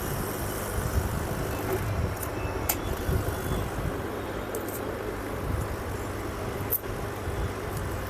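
Steady background rumble with a low hum, and a few light clicks about three and seven seconds in.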